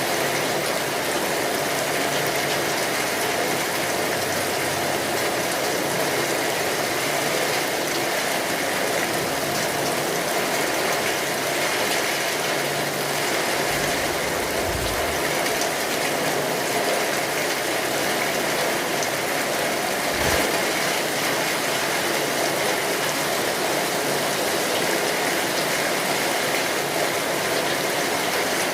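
Steady rainfall, an even hiss of dense drops that does not let up. Two short low rumbles come through under it, about fourteen and twenty seconds in.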